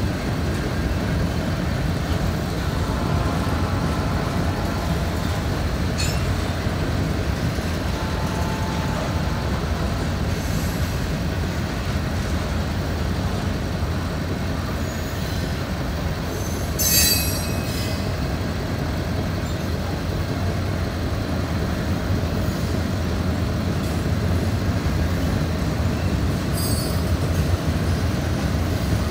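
Freight train of hopper and gondola cars rolling past: a steady low rumble of steel wheels on rail, with a short, high wheel squeal about seventeen seconds in and another, fainter one near the end.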